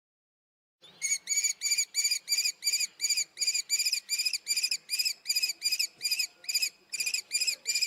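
Common kestrel giving its rapid, repeated 'kee-kee-kee' call, about three shrill notes a second, starting about a second in after silence.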